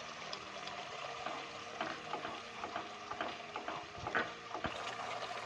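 Onion and spice masala sizzling in oil in a pan as a wooden spatula stirs in freshly added ground tomato, with steady frying hiss and scattered taps and scrapes of the spatula against the pan.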